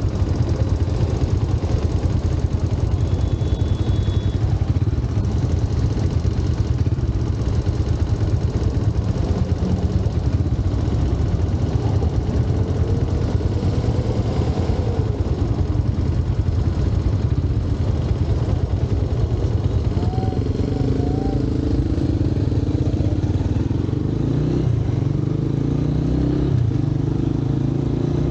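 Motorcycle running on the move through city traffic, a constant low engine rumble. About two-thirds of the way in, a steadier engine hum joins and changes pitch in steps.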